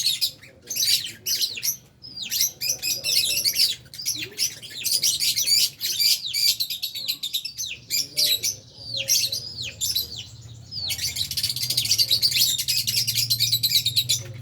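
A colony of Fisher's and albino lovebirds chattering: many birds at once giving rapid, high-pitched chirps and squeaks, with brief gaps, thickening into an almost unbroken chorus for the last few seconds.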